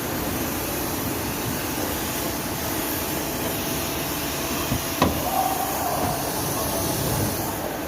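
A steady rushing motor noise, with one sharp knock about five seconds in.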